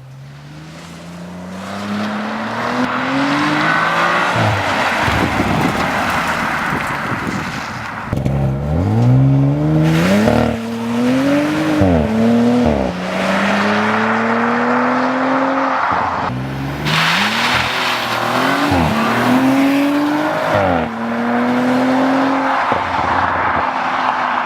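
2018 Audi RS4 Avant's 2.9-litre twin-turbo V6 with sport exhaust, accelerating hard in several runs. Each run has revs climbing and dropping sharply at quick upshifts. The sound cuts off suddenly at the end.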